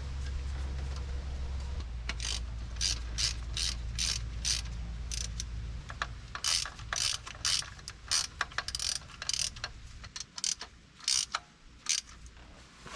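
Ratchet wrench clicking in short repeated strokes, about two a second, tightening down the carburetor.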